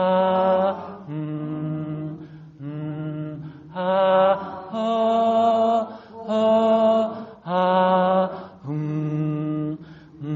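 Meditative vocal toning: a string of held, chanted vowel tones, each about a second long, stepping up and down between a low, a middle and a high pitch. These are the three tones of the exercise, sent to the belly, chest and head in turn.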